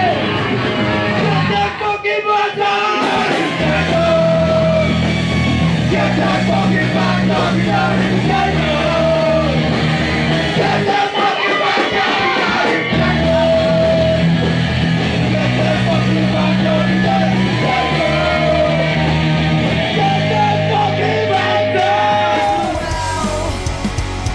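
Punk rock played loud, with yelled singing over a full band; the low end drops out briefly about two seconds in and again around the middle.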